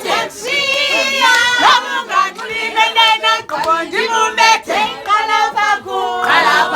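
A group of people singing together loudly, with several high voices overlapping.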